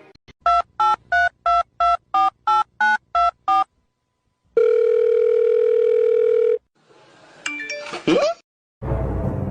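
Touch-tone telephone dialing: about ten short key beeps in quick succession, then after a pause a steady ringing tone of about two seconds. A brief rising sweep follows, and music starts near the end.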